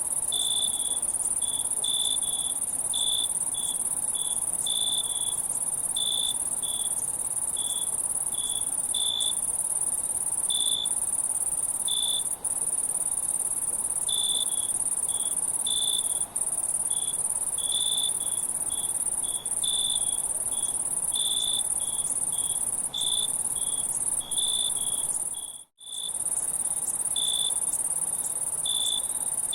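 Insect chorus of crickets chirping: a steady high-pitched hum with short higher chirps repeating at an uneven pace. It cuts out briefly about three-quarters of the way through.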